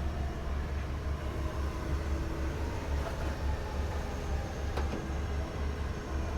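Rottler F10XS CNC boring and surfacing machine running a deck-surfacing pass on the right bank of a V8 engine block: a steady low hum with a faint steady tone and a couple of light clicks.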